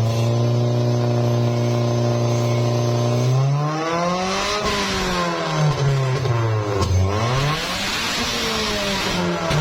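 Engine fitted with an aftermarket racing exhaust, running at a steady idle for about three seconds, then revved up and let fall back several times.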